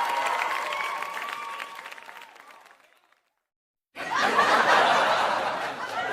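Crowd applause and cheering fading out to silence, then, after a gap of about a second, a crowd laughing starts suddenly about four seconds in.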